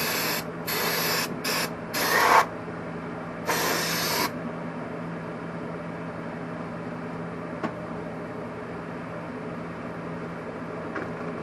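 Five short hissing blasts of brake cleaner spray and compressed air, cleaning out a freshly honed two-stroke cylinder; the last and longest blast comes about three and a half seconds in, after which only a steady background hum remains.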